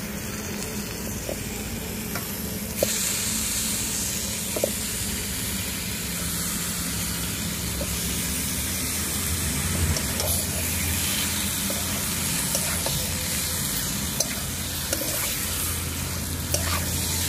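Raw chicken pieces sizzling as they fry in hot oil and fried spice paste in a karahi, the sizzle getting louder about three seconds in. A metal spatula stirs and scrapes the pieces, with a few knocks against the pan, as the meat starts to sear.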